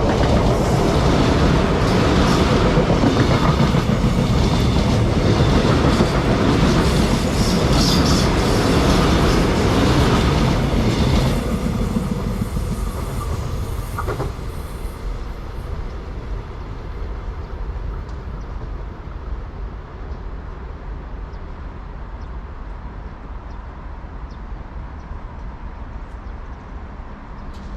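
A train passing close by, its wheels clacking over the rails. Loud for about the first ten seconds, then fading steadily as it moves away.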